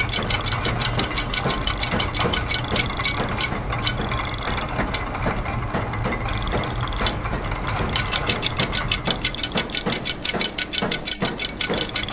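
Layered machine sounds: a fast, even run of ratchet-and-gear clicks, several a second, over a steady low machine hum. The sharpest clicks thin out for a few seconds in the middle while a steady high whine sounds.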